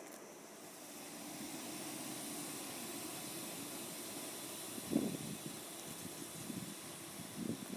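Train moving along the station tracks: a steady rushing hiss, with a few short low knocks about five seconds in and again near the end.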